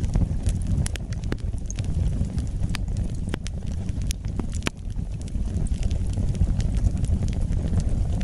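Wood fire burning in a fireplace: a steady low rumble of flames with scattered sharp crackles and pops from the burning logs, a few every second.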